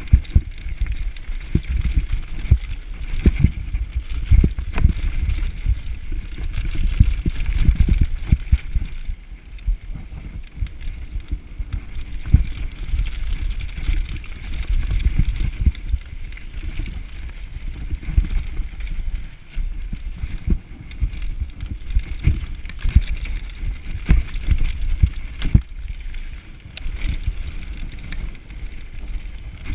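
Mountain bike riding down a downhill trail: tyres and frame rumbling over rough ground, with many irregular knocks and jolts.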